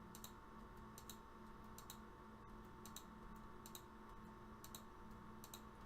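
Faint clicking at a computer while entries are deleted from a list, mostly in quick pairs about once a second, over a low steady hum.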